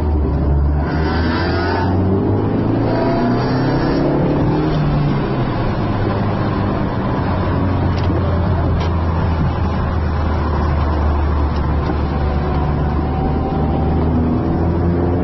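Car engine and road noise heard from inside the cabin. The engine pitch rises over the first few seconds as the car accelerates, then settles into a steady drone while cruising.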